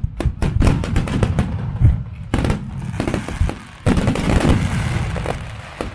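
Fireworks display: a dense run of bangs from shells bursting one after another, with stretches of hissing crackle about halfway through and again later, fading out at the end.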